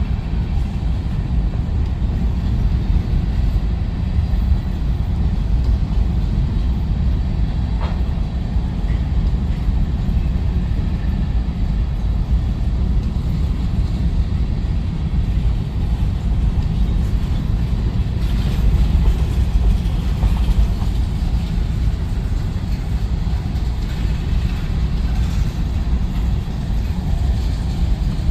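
Freight train rolling past, a steady low rumble of its cars' wheels on the rails.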